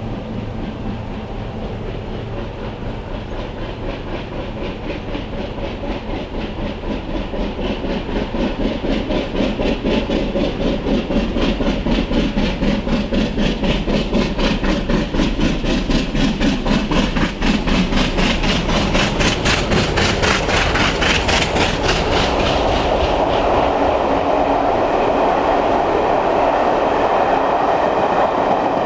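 Bulleid three-cylinder steam locomotive SR 34067 Tangmere working hard, its rapid, even exhaust beats growing louder as it approaches and passes. About three-quarters of the way through the beats give way to a steady rumble of the train rolling by.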